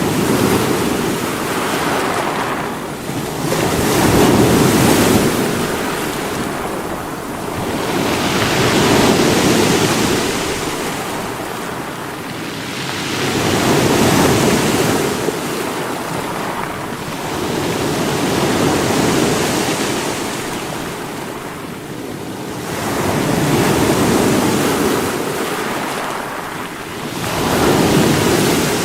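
Sea waves breaking against rocks, each surge swelling and falling back in a wash of surf about every five seconds.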